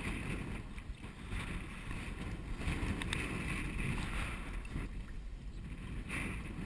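Wind rumbling on the microphone, with water splashing and lapping against the hull of a pedal kayak as it is pedalled out into a headwind; the splashing swells and fades every second or two.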